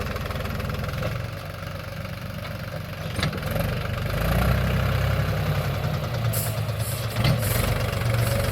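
Mahindra tractor's diesel engine running steadily, getting louder about halfway through, with two short sharp knocks, one about three seconds in and one near the end.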